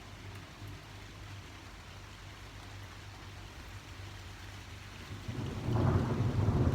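Steady rain during a thunderstorm, with a low rumble of thunder that grows loud about five seconds in.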